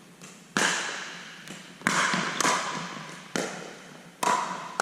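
A pickleball rally: sharp plastic pops of paddles striking the ball and the ball bouncing on the court, five loud ones and a couple of fainter ones, each ringing out briefly with an echo.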